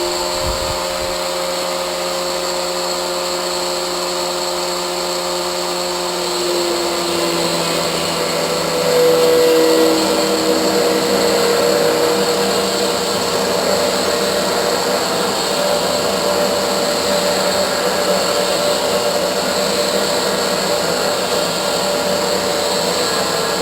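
A 4.5-inch angle grinder with a thin cutoff disc running with a steady whine, then cutting into mild steel bar stock from about seven seconds in. The sound turns into a louder, harsher grinding hiss as the disc bites into the metal.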